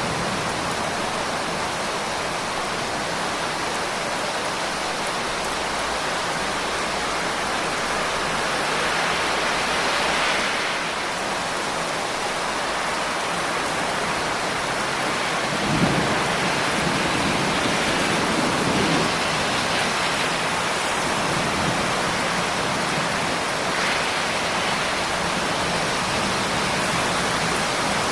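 Steady rain falling as a continuous hiss. A low rumble of thunder comes a little past halfway and rolls on for a few seconds.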